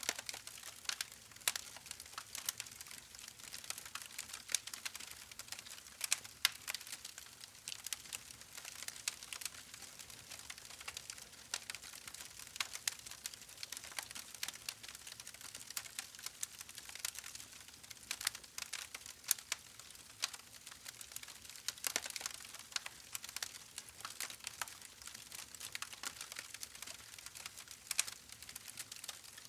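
Fire in a fireplace crackling: an uneven stream of sharp snaps and pops over a steady soft hiss.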